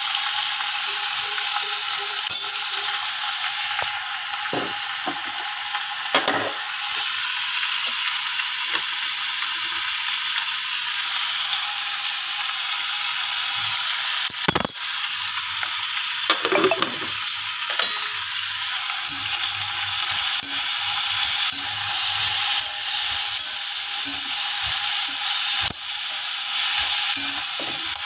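Yam cubes frying in oil in a wok, a steady sizzle. A metal spoon and spatula knock and scrape against the pan now and then, loudest about halfway through.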